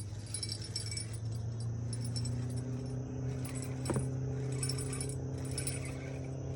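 Fishing reel being cranked while fighting a catfish, a metallic jingling rattle that comes in repeated bursts over a steady low hum.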